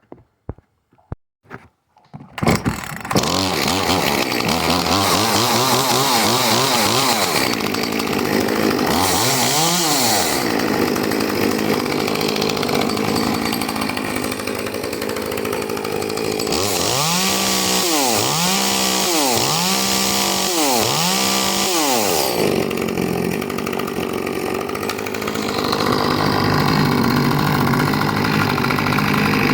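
Echo 2511T top-handle two-stroke chainsaw pull-started on choke: a few short pulls, catching about two seconds in. It then runs and is revved up and down repeatedly, with four quick revs in a row past the middle. It is running with the spark arrestor screen taken out of its muffler, which makes it sound snappy.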